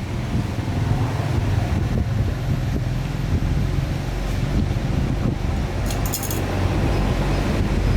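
A steady low mechanical rumble, with a brief metallic jingle about six seconds in.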